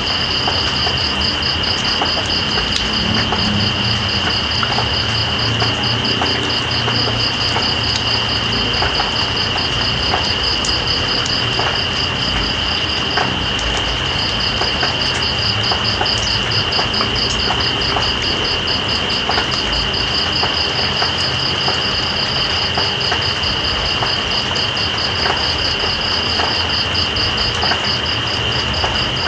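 Steady rain hiss with scattered drop ticks, under night insects calling. One insect gives a continuous high trill, and a second, higher one gives a fast pulsing chirr that pauses briefly about halfway through.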